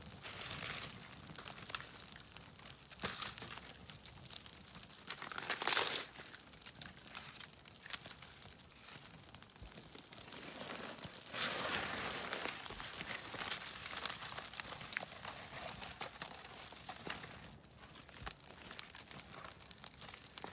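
Dry, frosty birch bark being torn and crumpled by hand, in irregular crinkling and tearing bursts with a louder burst about six seconds in.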